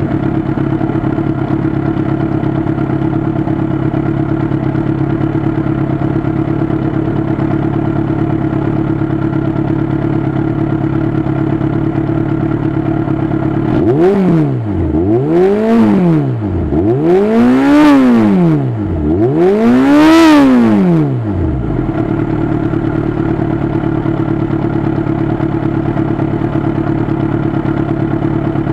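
Yamaha XJ6 inline-four motorcycle engine idling through an aftermarket spiral header, Powerbomb and Kozi exhaust. Midway it is blipped four times in quick succession, each rev rising and falling, the later ones higher and louder, then it settles back to a steady idle.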